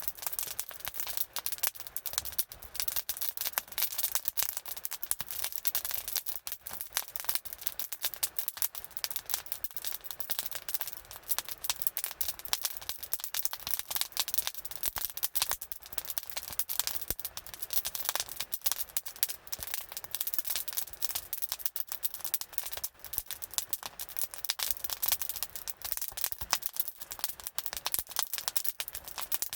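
Wood campfire crackling: a dense, unbroken stream of small sharp pops and snaps.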